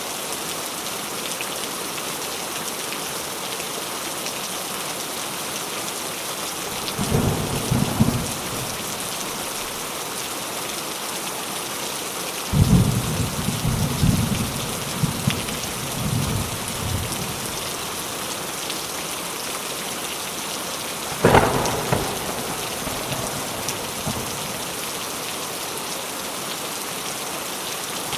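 Steady rain falling, with rolls of thunder: a short rumble about seven seconds in, a longer rolling one from about twelve to seventeen seconds, and a sharper clap around twenty-one seconds.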